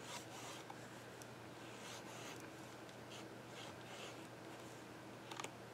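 Faint pencil strokes scratching on paper in short passes, with a couple of small clicks near the end.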